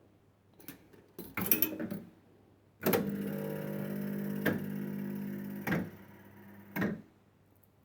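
1970s Stars & Stripes penny fruit machine in play: a few clicks, then the reel drive motor starts with a click and runs with a steady hum for about three seconds before the reels stop with clunks.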